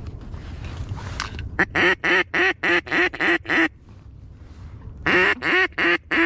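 Mallard duck call blown as a quick string of about eight loud quacks, then a pause, then about four more near the end: a hunter calling to passing ducks.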